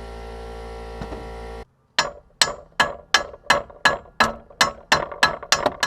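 A steady hum that cuts off suddenly, then a hammer striking metal in a run of about eleven even blows, about three a second, knocking at the crush sleeve and nut seized on top of the Jeep's sway bar.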